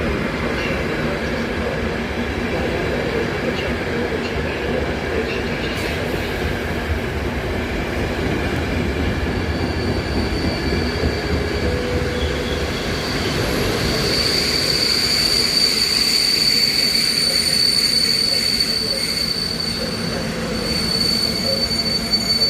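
Passenger train hauled by a Siemens Vectron electric locomotive running along the platform track with a steady rumble. About halfway through, a high-pitched wheel squeal sets in and holds.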